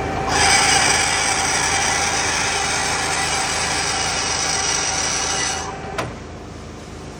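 Metal lathe cutting an 8 mm square thread: a harsh, hissing cutting noise over the steady running of the machine for about five seconds, then the cut stops, there is a sharp click, and the lathe runs on more quietly.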